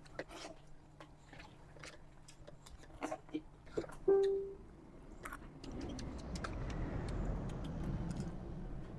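Eating sounds: scattered small clicks of chewing and utensils, a brief hum about four seconds in, then a low rumbling noise over the last few seconds.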